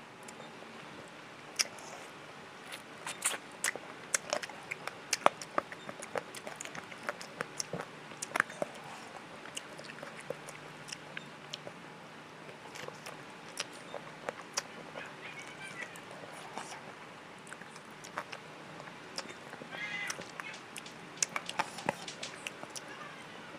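Close-up mouth sounds of someone eating spicy chicken feet: wet chewing, sucking and lip-smacking, with many sharp, separate clicks.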